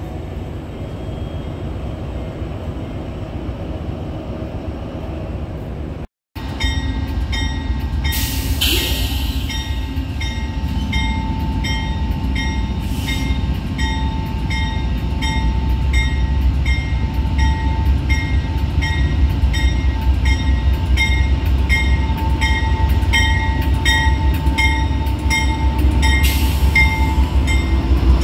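A standing passenger train's steady hum, then a diesel passenger locomotive arriving and drawing alongside. Its engine rumble grows as it comes close, with a bell ringing evenly about one and a half times a second and two short hisses of air.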